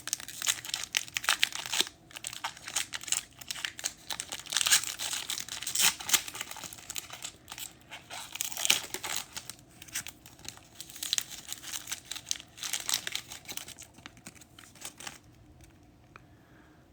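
Plastic trading-card pack wrapper crinkling and tearing open, in quick crackly bursts that die away about a second before the end.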